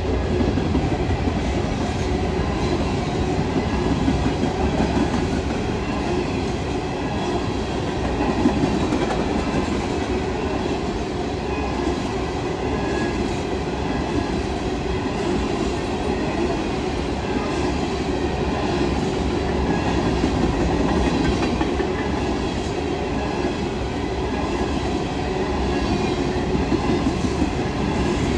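Freight train rolling past at speed: a steady rumble of wheels on rail with a regular clicking of the wheels over the rail joints.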